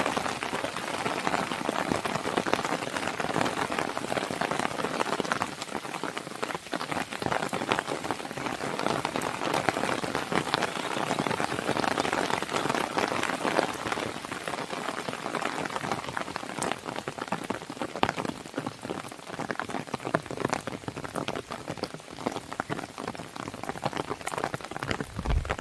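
Steady rain falling on a window, mixed with the frequent small pops and crackles of a fire in a fireplace.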